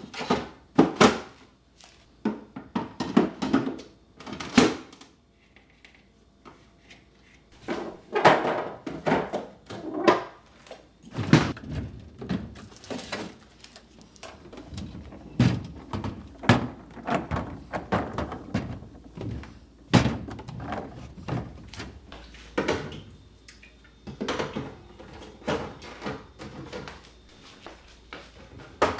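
Irregular knocks and clatter of kitchen items being handled and set down, with cupboard doors or drawers thudding shut now and then.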